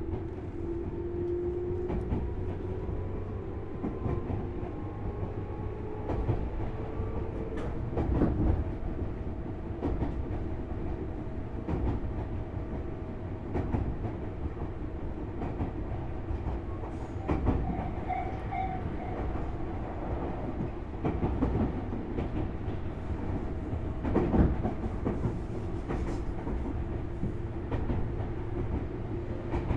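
Running sound of a Tobu 6050 series electric train with resistor control, heard aboard motor car MOHA6172. The traction motor and gear whine climbs in pitch over the first seven seconds or so, then holds steady over a constant rumble. The wheels clack over rail joints every few seconds.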